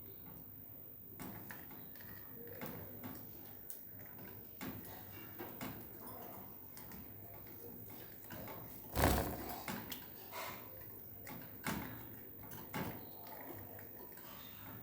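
Pet budgies moving about in their cage, giving scattered light taps and clicks, with one louder knock about nine seconds in.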